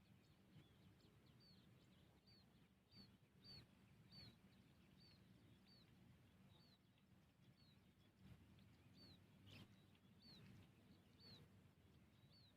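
A bird calling faintly, one short high chirp repeated over and over about every three-quarters of a second, over a faint low hum.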